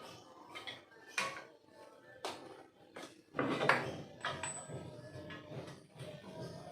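Background music with sharp metallic knocks and clatter from tools working on a seized refrigerator compressor's casing: a few separate knocks, then a louder run of clatter a little past the middle.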